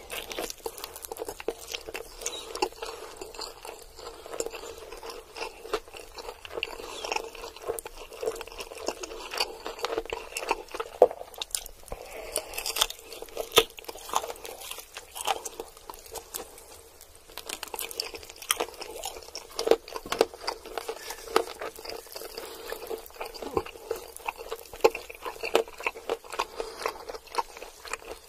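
Close-miked chewing and biting into sauced fried chicken drumsticks: crunchy bites and wet, sticky mouth sounds with many small irregular clicks, pausing briefly a little past halfway.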